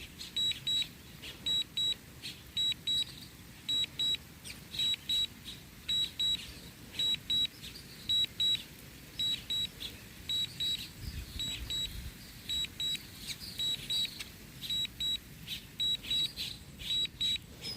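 Warning beeps from a DJI RC-N1 drone controller: short high beeps in groups of two or three, repeating about once a second.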